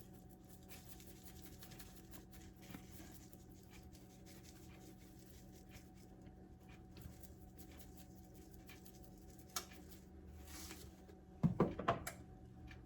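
Faint light patter and taps of dried Italian seasoning being shaken from its container onto raw chicken breasts, over a steady low hum. Near the end comes a brief, louder pitched sound that bends up and down.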